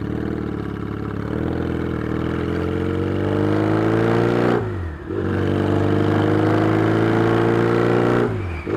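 Yamaha XS650 parallel-twin motorcycle engine accelerating through the gears: the revs climb steadily, dip sharply at an upshift about halfway through, climb again and dip at a second upshift near the end. The exhaust pipes are a bit loud.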